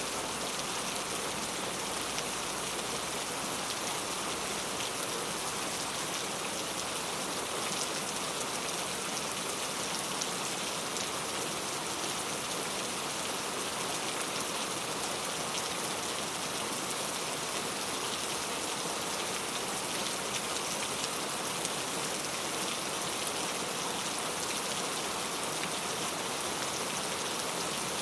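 Heavy rain pouring steadily onto street surfaces, a dense, even hiss of countless drops with faint individual patters.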